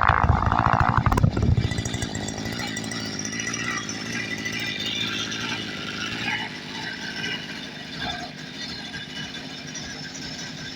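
Goped Sport scooter's small two-stroke engine running, louder for the first second and a half, then settling to a steadier, lower level.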